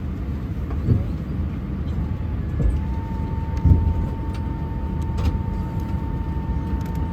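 Steady low rumble inside a parked Airbus A320's cabin, with a few dull thumps and a thin steady tone that comes in about three seconds in.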